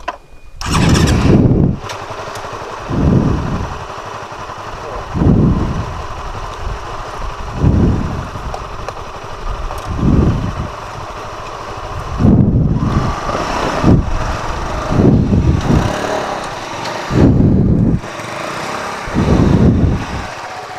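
Honda CBR150R motorcycle on the move, engine running under a steady rush of noise. Loud rushing surges come every two seconds or so.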